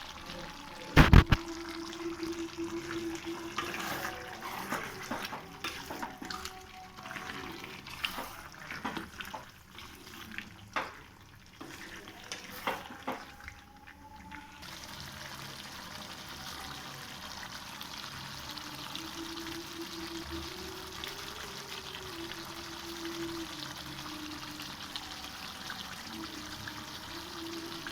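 Cooking sounds at a pan: scattered knocks and clanks of utensils in the first half, one loud knock about a second in. About halfway through, a steady hiss of liquid cooking or being poured sets in and continues.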